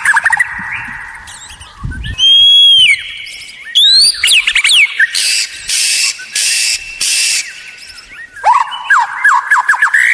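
White-rumped shama (murai batu) singing a varied song. It starts with clear whistled notes and upward-sweeping glides, then gives four harsh rasping notes about halfway through, and ends with a fast run of short falling notes.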